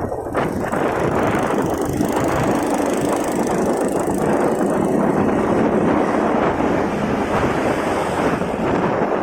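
Wind rushing steadily over the microphone of a moving motorcycle, with the motorcycle's engine running and road traffic beneath it.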